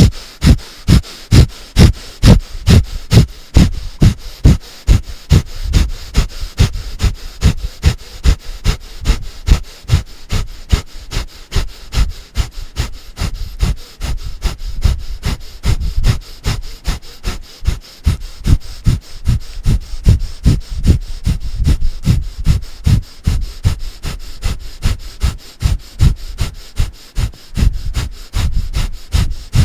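A person doing breath of fire: rapid, forceful puffs of breath through the nose, pumped from the navel, in an even rhythm of about two to three a second.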